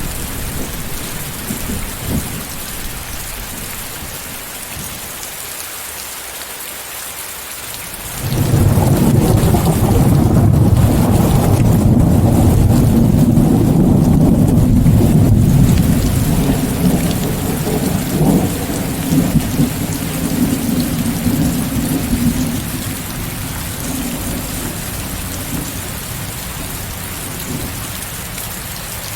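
Steady heavy rain mixed with a white-noise hiss. About a third of the way in, a long, loud thunder rumble sets in suddenly, holds for several seconds, then rolls away gradually while the rain goes on.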